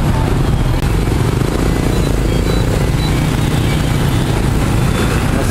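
Steady noise of dense motorbike traffic passing in the street, a continuous engine drone.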